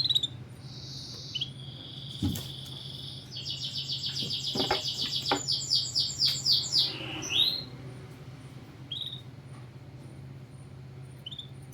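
Canary singing: a held whistled note, then a rapid trill of repeated notes that grows louder and breaks off about seven and a half seconds in, followed by a few short chirps. A steady low hum runs underneath.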